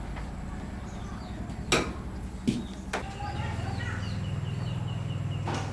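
A few sharp knocks, then a low steady mechanical hum that starts about three seconds in, with short bird chirps above it.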